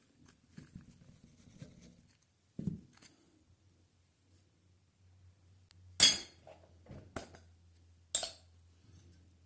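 Small metal parts clinking sharply as they are set down on a hard surface, three times in the second half, the first the loudest, after some soft handling and a dull thud. A faint low hum runs underneath.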